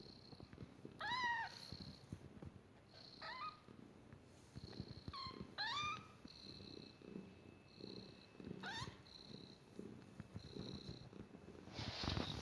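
Young kittens mewing: about five thin, high calls that rise and then fall in pitch, with short, higher squeaks between them, over a low, rattling purr.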